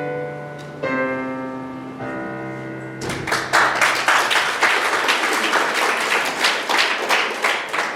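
Piano playing the closing notes of a piece, held and ringing out. About three seconds in, audience applause breaks out and continues.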